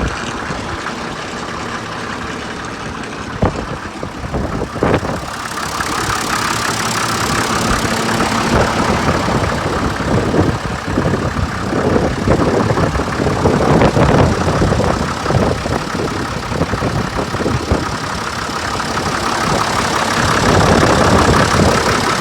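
Case 930 tractor engine idling, then running louder and fuller from about five seconds in, with a few sharp clicks early on.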